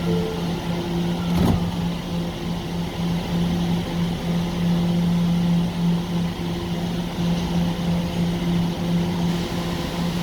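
Staten Island Railway subway train standing at a station after the door-closing announcement: a steady electrical hum from the train's equipment, opened by a short two-note door chime, with a single knock about a second and a half in as the doors close.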